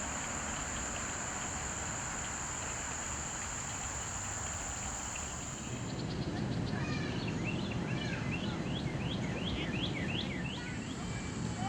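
Outdoor summer ambience with a steady high-pitched insect drone, like crickets or katydids, over a low rushing background. About halfway through the drone stops abruptly and a bird sings a quick series of downward-sliding whistled notes.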